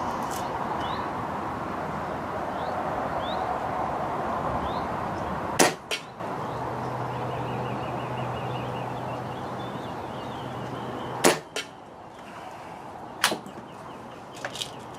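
Three air rifle shots, each a sharp crack: one about five and a half seconds in, one near eleven seconds and one near thirteen. The first two are each followed a moment later by a fainter click. A steady rush of wind on the microphone runs underneath.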